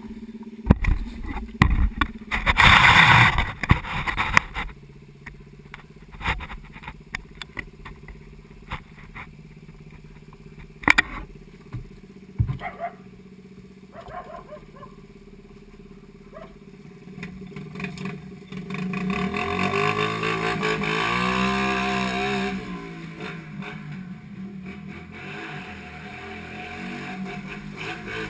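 A 50cc pit bike engine running as it is ridden, with rattling and knocks a few seconds in. About twenty seconds in, the engine revs up and down repeatedly, the loudest stretch, then settles back to a steadier run.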